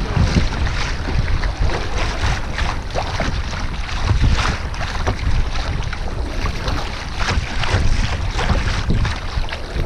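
Wind buffeting the microphone over the noise of the sea around a kayak, with frequent short splashes and gusts.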